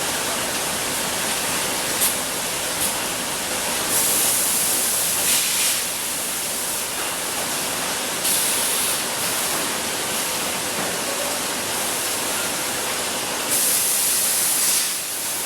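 Bottled-water production line machinery running with a steady, dense noise. Three stretches of louder hiss, each lasting about a second, come in, along with two short sharp clicks a few seconds apart.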